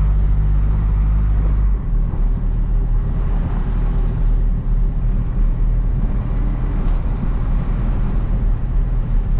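Hino cab-over box truck's diesel engine running under way with road noise, heard from inside the cab; the engine note changes about two seconds in.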